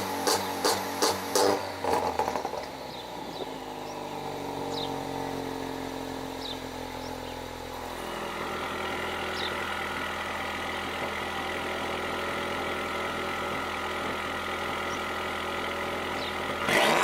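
2015 Ford Focus ST's turbocharged 2.0-litre four-cylinder engine, with catless downpipe and exhaust cutout, running after a start: a rapid even pulsing in the first two seconds, then the revs sink over several seconds and settle to a steady idle about halfway through.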